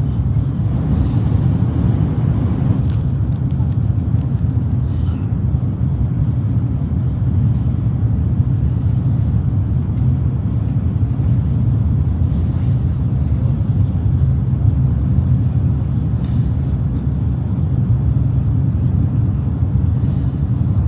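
Shinkansen bullet train running at speed, heard from inside the passenger car as a steady low rumble.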